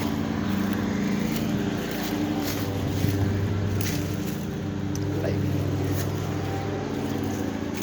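Engine running steadily at idle: a continuous low hum with a few faint clicks over it.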